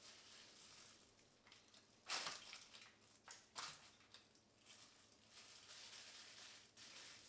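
Faint kitchen food-handling noises: soft rustling with a brief crunching, crinkling burst about two seconds in and another shortly after three and a half seconds.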